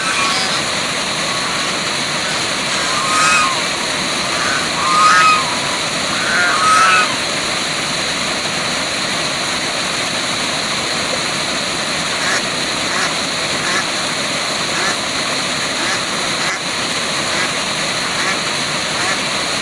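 Waterfall rushing steadily, with a few short bird calls over it about three, five and seven seconds in, and fainter calls later.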